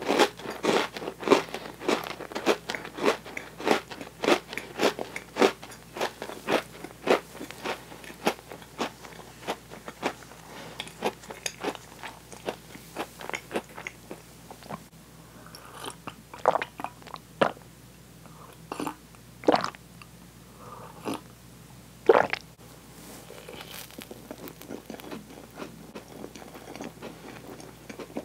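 Close-miked chewing of sticky toasted marshmallow: quick, wet mouth clicks and smacks about three a second, thinning out to fewer, louder clicks in the second half.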